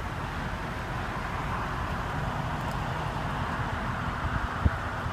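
Steady low rumbling background noise, with a faint hum joining about two seconds in and a single thump near the end.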